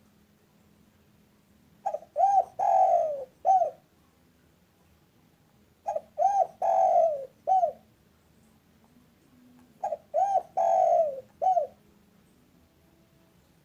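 Spotted dove (tekukur) cooing. There are three identical phrases about four seconds apart. Each phrase has two short coos, then a longer coo falling slightly in pitch, then a short closing coo.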